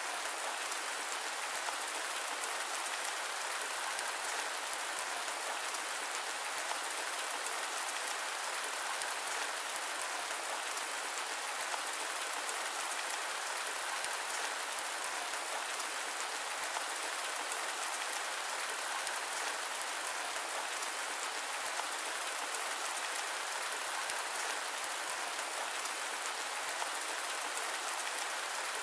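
Steady rain falling: an even, unbroken hiss with fine scattered drop ticks and no thunder.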